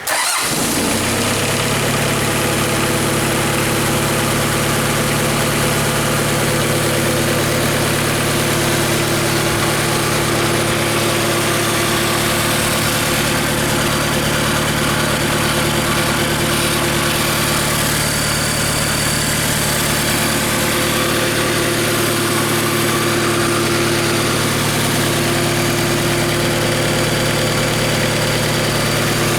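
Hyundai D4BH 2.5-litre four-cylinder turbodiesel starting right away and then idling steadily, run for an oil pressure check.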